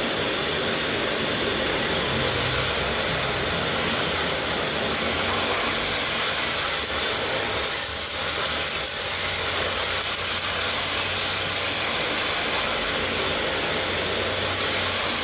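A motor-driven cleaning jet runs with a loud, steady hissing rush and a low motor hum beneath it, cutting off just after the end.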